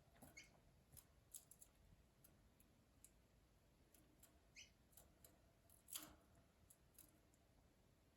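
Faint, scattered clicks and taps from canaries moving about in a birdcage, with a couple of brief high chirps; the loudest tap comes about six seconds in.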